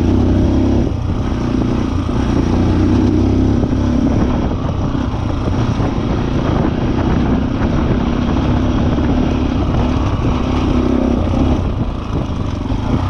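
SWM Six Days scrambler motorcycle's single-cylinder engine running through its original exhaust while under way, loud and continuous. The sound dips briefly about a second in and again near the end.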